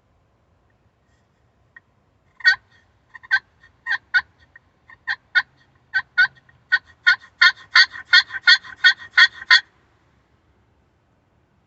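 A gobble made on a turkey box call: a run of sharp rattling strokes that starts spaced out and quickens into a fast rattle over about seven seconds, then stops.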